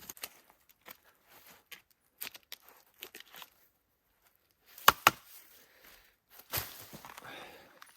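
Hand-work noise: scattered small clicks and crackles, two sharp cracks about five seconds in, then a rasping, tearing scrape.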